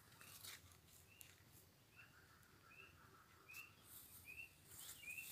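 Near silence, with a faint bird calling a short rising chirp over and over, about once a second, from about two seconds in.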